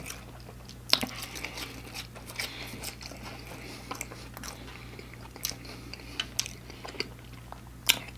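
A person chewing crispy fried food close to the microphone: wet crunches and mouth clicks, with a sharp crunch about a second in and another near the end. A low steady hum runs underneath.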